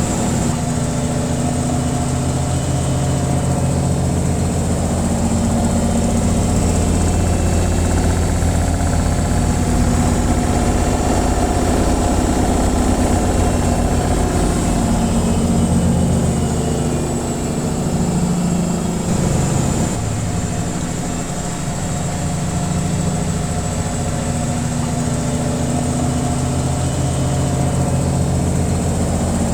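Washing machine on its spin cycle: a steady, loud mechanical hum and drone of the spinning drum, dipping briefly a little past the middle before steadying again.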